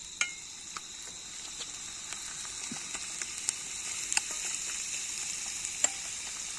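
Oil sizzling in a cooking pan over a campfire, a steady high hiss with a few sharp pops and crackles.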